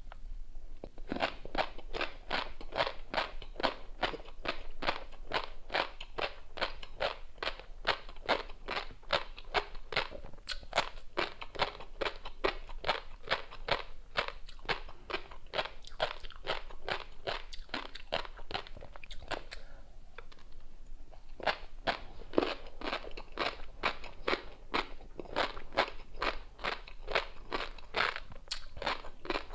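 Close-miked chewing of tobiko (flying-fish roe) with a crunchy topping: rapid, rhythmic crunching and popping, about three to four crunches a second. It starts about a second in and pauses briefly about twenty seconds in.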